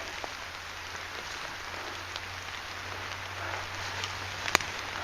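Light rain falling in woodland: an even hiss with scattered faint drop ticks, one sharp click about four and a half seconds in, and a low steady hum underneath.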